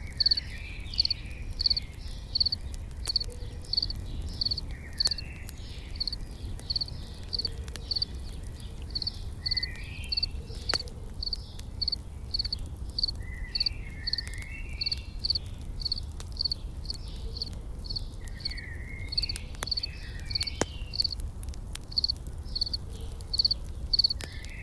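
An insect chirping in a steady, high-pitched rhythm, about two chirps a second, with short bird calls coming and going and a few faint crackles from a campfire over a low rumble.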